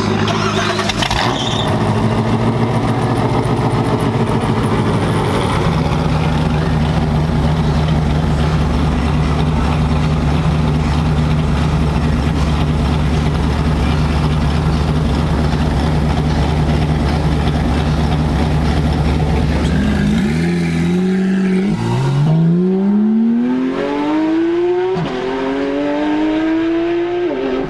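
A car engine running steadily at low revs, then, past the twenty-second mark, accelerating away hard: the pitch climbs in one long rise, drops at a gear change, and climbs again.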